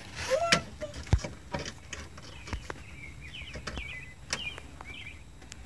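Birds chirping a few short high calls about three to five seconds in, over scattered light clicks and taps of plastic toys being handled. A brief child's vocal sound comes near the start.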